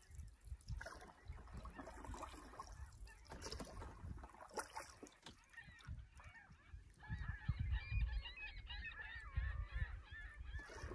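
Canoe paddling with light water sounds, then from about seven seconds in, birds calling across the lake: a run of wavering, overlapping calls over low rumbling.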